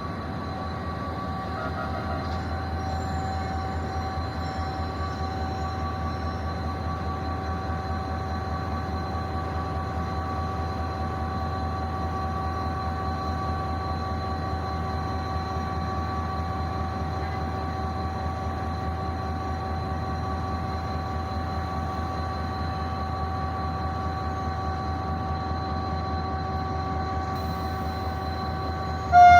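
Millat Express passenger train running steadily, a constant low hum with several steady whining tones over it.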